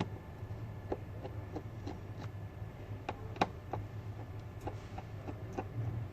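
Light, irregular clicks and taps of small tools and plastic parts during smartphone disassembly, over a steady low electrical hum.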